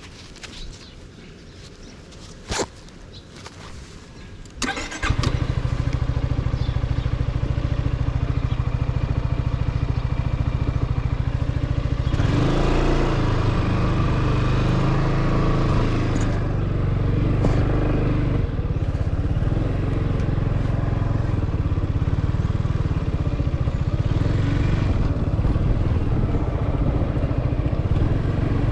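Yamaha XMAX scooter's single-cylinder engine starting: a few light clicks and knocks, then the engine catches about five seconds in and runs steadily. From about twelve seconds in it runs harder as the scooter moves off, with more wind and road noise.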